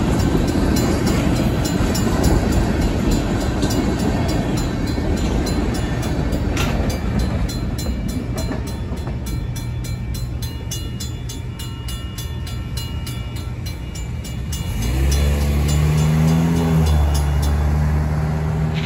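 Freight tank cars rolling over the crossing, their wheel noise fading away after a few seconds, while the crossing's Safetran mechanical bell keeps ringing in an even run of strokes. About fifteen seconds in, a motorhome's engine pulls away across the tracks, its pitch rising and stepping.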